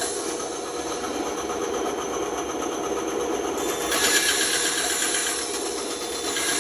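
Electric woodworking saw running steadily, with a brighter, louder hiss for a second or two near the middle as the blade cuts into the wood.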